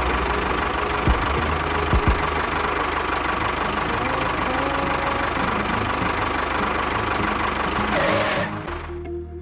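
An engine running steadily with a fast, even chatter, dropping away near the end.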